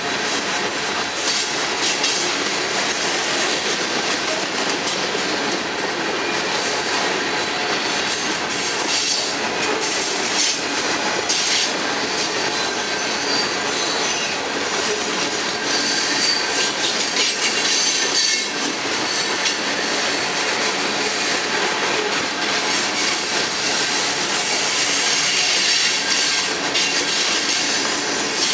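Covered hopper cars of a freight cement train rolling past: a steady rumble and rattle of steel wheels on rail, with scattered clicks and a faint high wheel squeal now and then.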